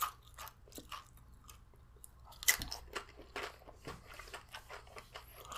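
Tortilla chip bitten and chewed close to the microphone: a sharp crunch about two and a half seconds in, then a run of quick, irregular crunches while chewing.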